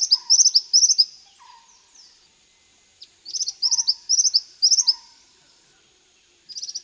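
Bar-winged flycatcher-shrike calling: quick clusters of short, high-pitched notes, repeated phrase after phrase. One run ends about a second in, a second run follows after a pause of about two seconds, and a third starts near the end.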